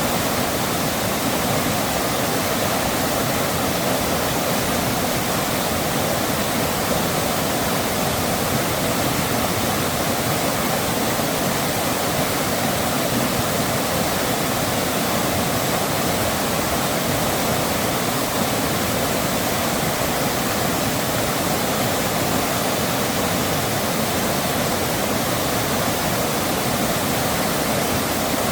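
Mountain stream in spate after heavy rain, its water rushing in a steady, loud torrent.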